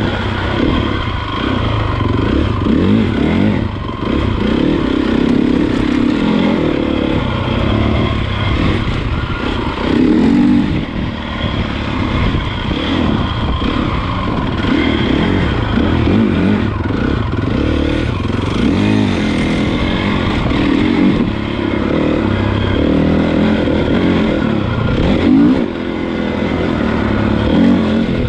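Honda CRF450 motocross bike's single-cylinder four-stroke engine being ridden, its pitch rising and falling over and over as the throttle is opened and shut.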